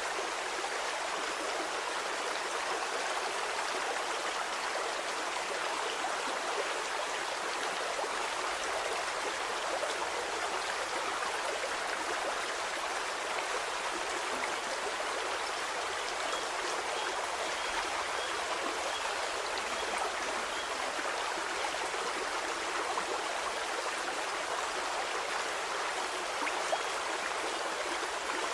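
A stream of flowing water, a steady, even rush with small splashes and trickles.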